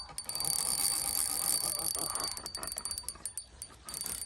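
Fishing reel being worked while a hooked catfish is fought, giving irregular rapid ticking, with a thin steady high-pitched tone underneath.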